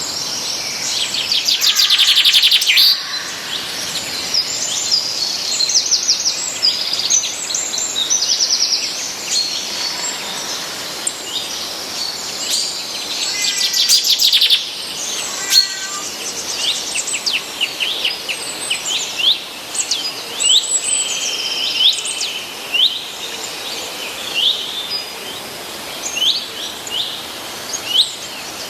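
Several songbirds singing and calling, a busy mix of short chirps and fast trills. The loudest trills come about two seconds in and again around fourteen seconds in, and quicker single chirps follow in the second half.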